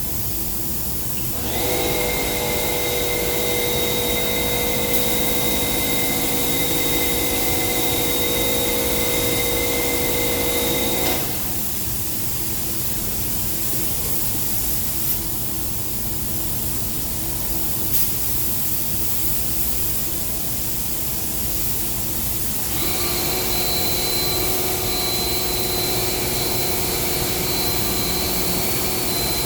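Spray-painting equipment hissing steadily, with a machine whine that starts about a second and a half in, cuts out around eleven seconds, and comes back near twenty-three seconds.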